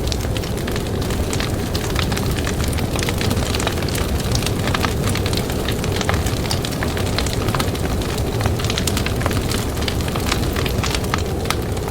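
Campfire crackling, with frequent sharp pops and snaps over a steady low rumble of blizzard wind.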